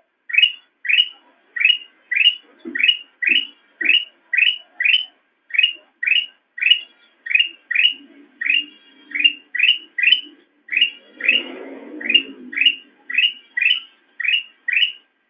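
A kutilang emas bulbul repeating a short, sharply rising chirp about twice a second. Faint low thumps and a muffled low rumble sound under the calls in the middle of the stretch.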